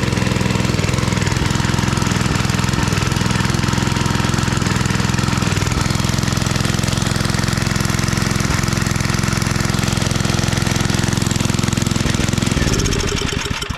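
Old 5 hp Briggs & Stratton single-cylinder engine on a homemade wood splitter, running steadily at constant speed, then shut off near the end and winding down to a stop.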